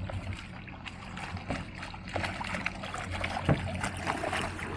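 Kayak paddles splashing and dripping in lake water: many small irregular splashes over a steady low rumble.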